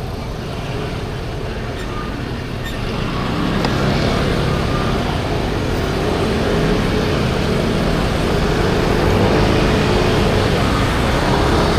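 Traffic and wind noise from a moving 50cc motor scooter, with the low drone of engines close by getting louder from about three seconds in.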